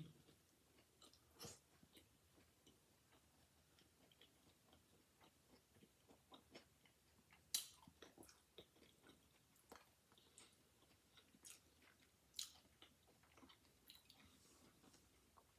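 Faint chewing of a crunchy hard-shell taco, with scattered short crisp crunches; the sharpest comes about halfway through.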